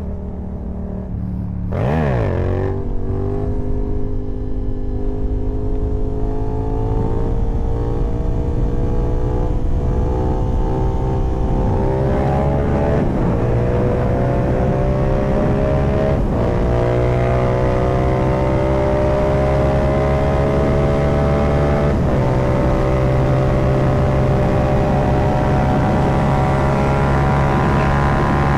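Yamaha MT-07's parallel-twin engine under way: a quick rev blip about two seconds in, then a steady pull with the engine note climbing slowly, broken by a few brief shifts.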